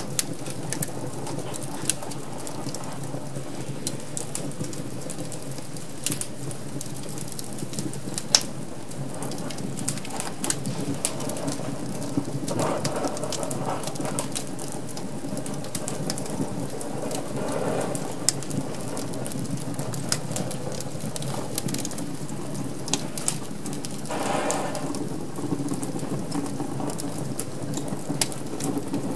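Wood fire crackling in a fireplace: sharp, irregular pops and snaps over a steady low rush of the flames, which swell briefly a few times.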